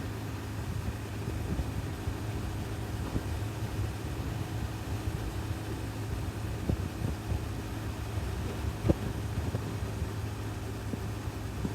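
Honda CB1000R's inline-four engine running steadily with no revving, heard from the bike, with a few light knocks, the sharpest about nine seconds in.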